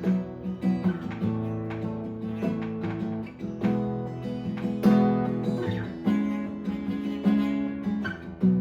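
Acoustic guitar strumming chords in an instrumental stretch of a worship song, with no singing.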